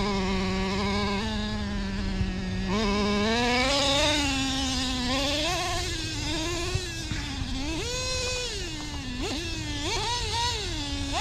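Redcat Earthquake nitro RC truck's two-stroke glow engine buzzing. It holds a steady pitch for the first few seconds, then revs up and down over and over, with sharp rises and drops near the end. The owner takes this for the transmission slipping.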